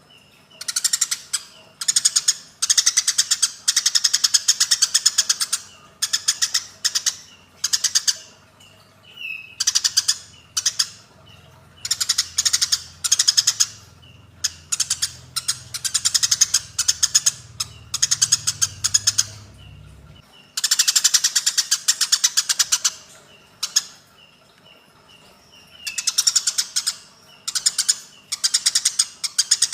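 Eurasian tree sparrows (burung gereja) giving the harsh, rapid chattering calls of fighting sparrows, in repeated bursts of one to three seconds separated by short pauses.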